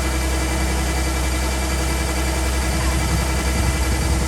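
A large engine running steadily at constant speed, with a strong low hum and no change in pitch.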